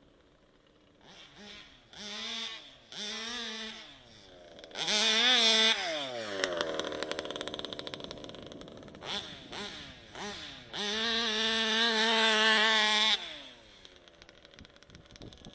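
Rebuilt 71cc two-stroke engine of a 1/5-scale Baja RC car, running through a DRP torque pipe, revved in throttle blips and two longer high-rpm pulls. After the first pull the pitch sinks slowly as it comes off throttle; the second is held steady for about two seconds and then cut off sharply.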